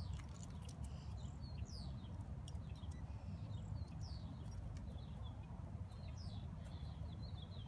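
Small birds chirping in the background, many short, quick chirps that fall in pitch, scattered throughout, over a steady low rumble.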